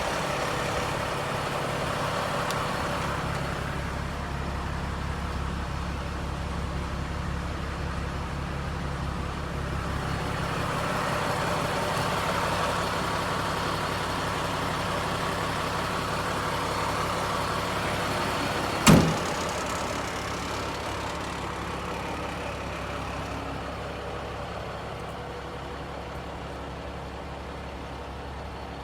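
Cummins L10 diesel engine of a 1991 GMC/Volvo vacuum truck idling steadily, with one sharp knock about two-thirds of the way through.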